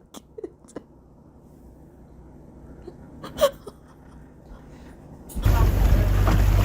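A few faint clicks and one short squeak, then about five seconds in a sudden switch to loud wind buffeting the microphone aboard a moving boat.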